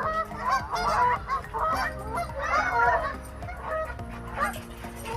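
A flock of geese honking, many short overlapping calls in quick succession that thin out near the end.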